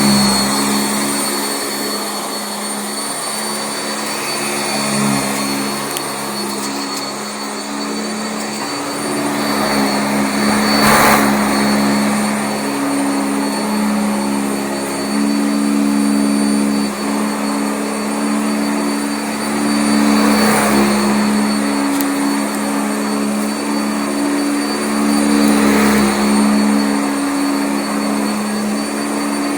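Sanitaire SC679J commercial upright vacuum running on carpet: a steady motor hum with a thin high whine, its pitch shifting slightly as it is pushed, and a few louder rushes of air along the way.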